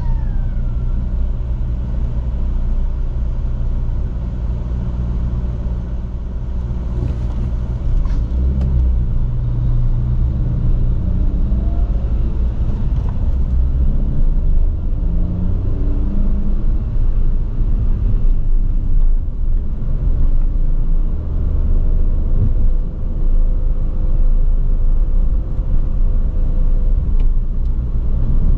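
A small sports car's engine and exhaust, loud, running as it drives. The revs rise and fall a few times in the middle, as with short bursts of acceleration.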